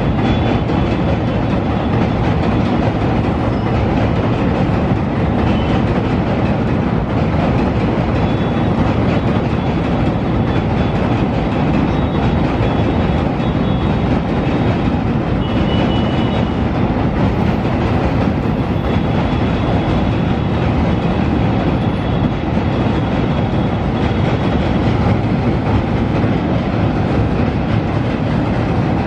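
Passenger train coaches rolling across an old iron truss railway bridge: a steady, loud rumble of wheels on rails that carries on without a break.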